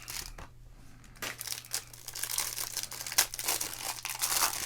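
Trading-card packaging being handled and torn open: irregular crinkling and tearing of wrapper and pack. It is sparse at first and gets busier about a second in.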